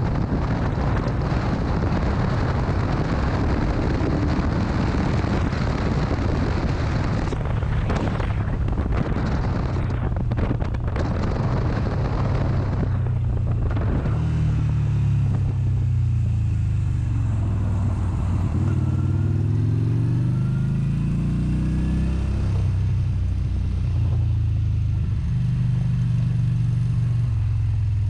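Motorcycle riding with the engine running under heavy wind rush on the microphone. About halfway through, the wind eases and the engine note comes through clearly, its pitch falling and rising several times.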